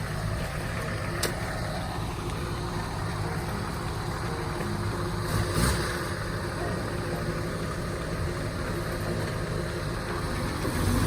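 Off-road vehicle engine running steadily at an even pitch, with a single sharp click about a second in and a brief louder rush of noise about halfway through.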